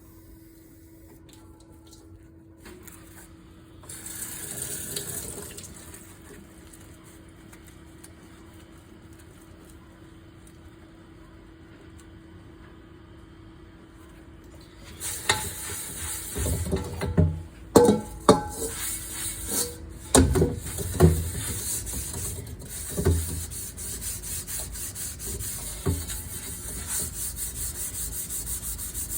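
Water running from a kitchen tap into a sink, with a short rush about four seconds in, then a steady flow from about halfway through. Several loud clunks of dishes knocking in the sink come soon after the flow starts.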